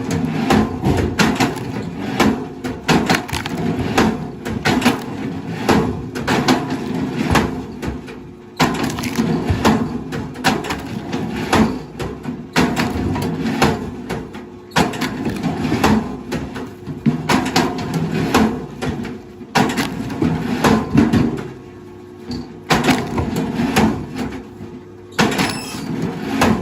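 Wood cracking and splintering, with repeated sharp snaps over a steady low hum, as machinery breaks up timber or stumps.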